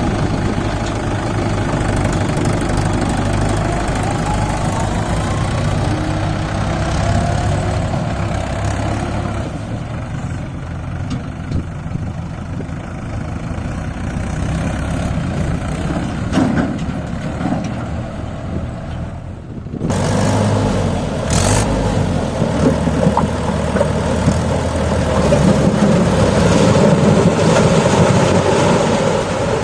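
Farm tractor's diesel engine running steadily, with an abrupt change in the sound about twenty seconds in.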